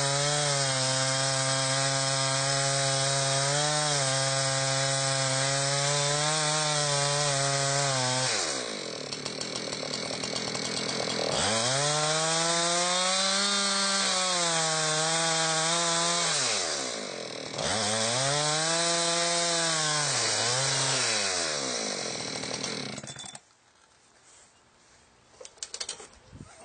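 Chainsaw in a chainsaw mill, running steadily at full speed through a log. The engine falls off about 8 s in, speeds up again and sags twice in rising-and-falling swells, then stops about 23 s in.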